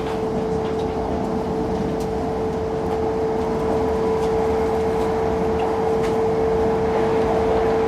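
Running noise of a Hokkaido Shinkansen train at speed, heard inside the passenger cabin: a steady rumble with a constant single-pitch hum over it.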